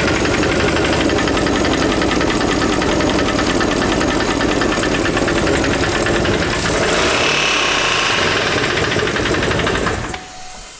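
A GM L94 6.2-litre V8 in a 2011 Cadillac Escalade running with a rapid clickety-clackety clatter from the bottom end: a rod knock, which the owner takes for a bad rod bearing. The engine stops shortly before the end.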